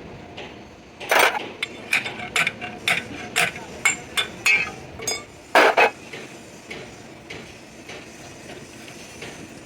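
A run of about a dozen sharp metallic knocks and clinks of tools on heavy metal parts, about two a second and unevenly spaced. The loudest strikes come about a second in and again near the six-second mark, and the clinks ring briefly.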